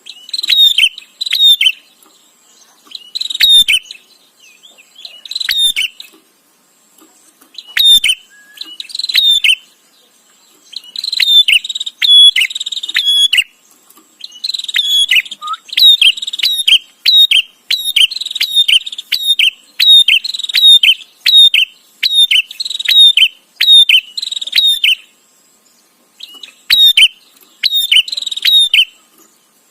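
Prenjak (prinia) calling loudly: rapid, sharp repeated chirps in bursts of a second or two, again and again with short pauses between.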